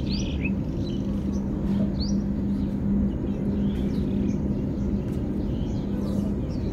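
Steady low hum and rumbling background noise, with a few short rising bird chirps over it, most of them in the first two seconds. The hum stops shortly before the end.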